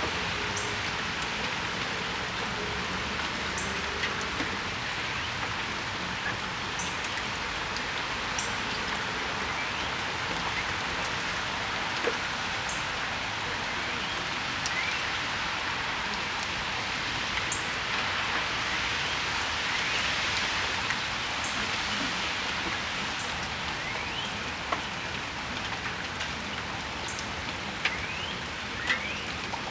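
Steady spring rain shower falling on a patio, with a constant even hiss. Scattered sharp ticks of individual drops land close by.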